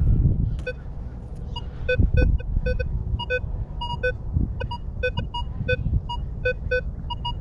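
Minelab Vanquish 440 metal detector giving short target beeps in two or three different pitches, irregular and two or three a second, as the coil sweeps over a buried target that reads as ID 17. A low rumble swells underneath at the start and again about two seconds in.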